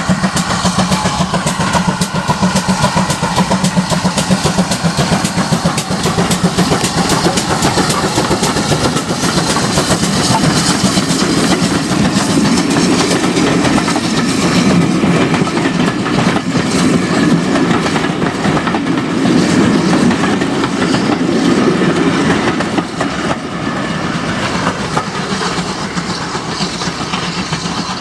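Train running past on the line, its wheels clicking over the rail joints, easing off a little near the end as it draws away.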